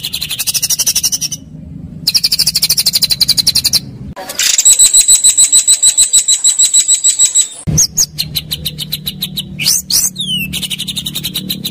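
Songbird masteran (training song for white-rumped shamas and contest birds): harsh, rapid, high-pitched trills in separate bursts, a long even trill from about four seconds in, then sharp whistled notes sliding up and down near ten seconds before the fast trills return.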